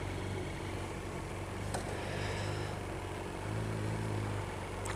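Motorcycle engine idling, a low steady hum, with a faint click a little under two seconds in.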